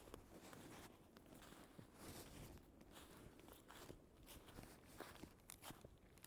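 Faint, irregular footsteps of a person walking.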